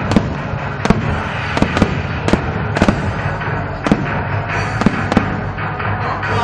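Aerial fireworks bursting overhead: a rapid, irregular run of sharp bangs, roughly two a second, over a steady background din.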